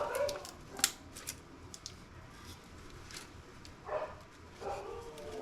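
Scattered light clicks and scrapes of a knife and fingers working on a laptop motherboard's metal shield covers, a few sharp ticks spaced irregularly.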